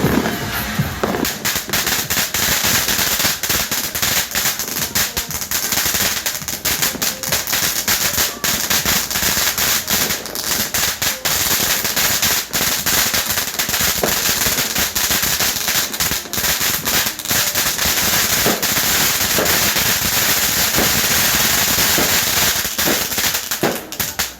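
Firecrackers and fireworks going off in a dense, continuous barrage: many sharp cracks and bangs overlapping into a constant crackle.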